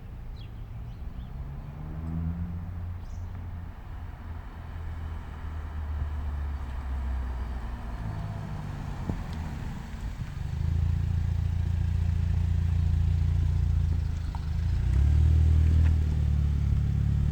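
Kia Stinger with an NGM axle-back exhaust driving toward the listener, its exhaust note building as it approaches. It revs up twice, about two seconds in and again about eight seconds in, and is loudest through the second half.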